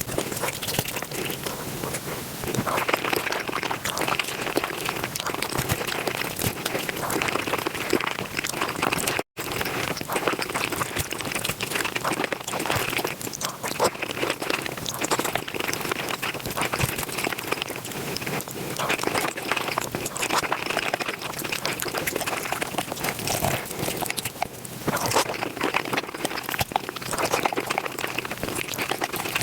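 Close-miked eating sounds played at five times speed: a dense, rapid run of chewing, crunching and crackling with no pauses, broken only by a momentary cut about nine seconds in.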